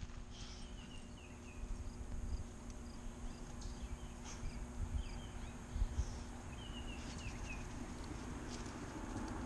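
Outdoor ambience: a bird chirping in short runs of falling notes every couple of seconds, over a low rumble. A passing vehicle grows louder near the end.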